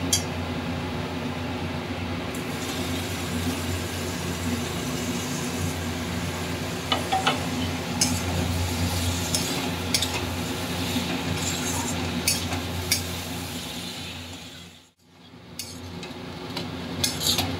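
Sliced green tomatoes and spiced masala sizzling as they fry in an aluminium kadai, with a steel spatula stirring and now and then clinking and scraping against the pan, over a steady low hum. The sound drops out briefly near the end.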